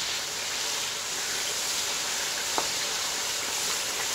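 Tomato, garlic and spice masala sizzling in hot oil in a steel karahi while it is fried and stirred with a wooden spatula, a steady hiss with a few light clicks, the clearest about two and a half seconds in.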